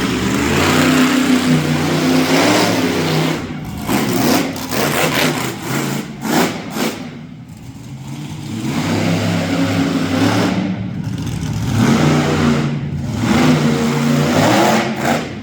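Monster truck engine revving hard in repeated rising and falling bursts, easing off briefly about halfway through before building up again.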